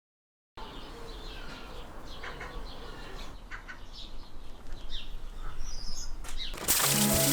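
Silence for about half a second, then a faint outdoor background with birds chirping. Music comes in much louder near the end.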